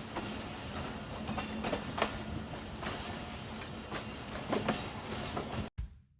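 Train running along the track: a steady rumble with irregular sharp clicks of the wheels over the rails. It cuts off abruptly near the end and a slow drum beat starts.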